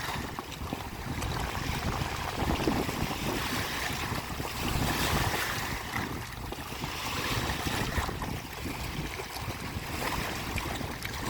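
Wind-driven lake waves washing in, swelling and easing every couple of seconds, with wind rumbling on the microphone.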